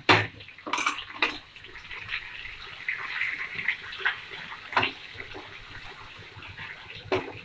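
Onion, tomato and cashew paste sizzling in hot oil in a frying pan while a wooden spatula stirs and scrapes it, with a few short knocks of the spatula against the pan.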